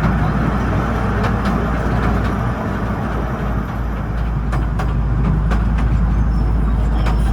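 Artouste narrow-gauge tourist train running along its track: a steady rumble with scattered sharp clicks and knocks, more of them in the second half.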